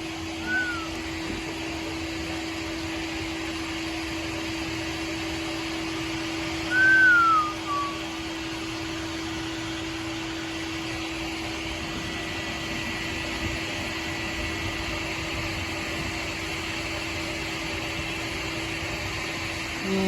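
Steady hum and airy hiss of a car's interior with the engine or ventilation running. Two short falling whistle-like tones cut through it, a faint one just under a second in and a louder one about seven seconds in.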